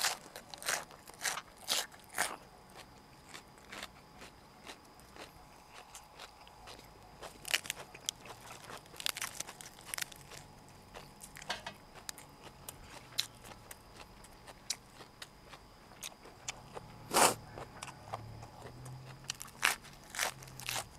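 Close-miked chewing and biting of boiled pork sai tan and fresh lettuce: irregular crisp crunches, with the loudest crunch about 17 s in.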